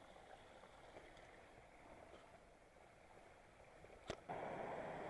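Near silence for about four seconds, then a sharp click and a sudden louder, steady rush of flowing mountain-stream water.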